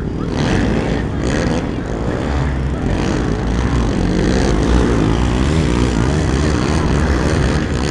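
Racing ATV (quad) engines running hard, their pitch rising and falling as the riders rev through the throttle, with several engines overlapping.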